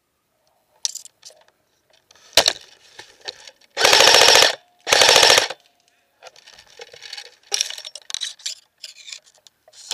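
Airsoft rifle firing two short full-auto bursts about a second apart, each a rapid even rattle of shots lasting under a second, after a single sharp crack a couple of seconds earlier. Fainter clicks and rustles come and go around them.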